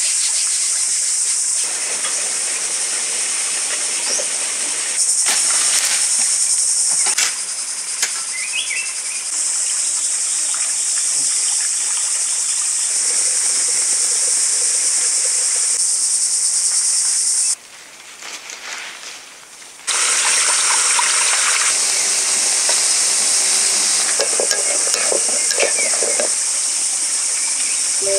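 Insects droning in a steady, high-pitched chorus, with a few short bird chirps about eight seconds in. The drone jumps in level at several sudden cuts and drops away briefly a little past the middle.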